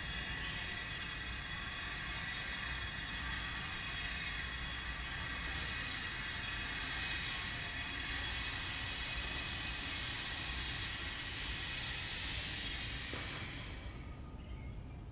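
A power tool cutting or grinding stone: a steady high whine over a loud hiss, cutting off near the end.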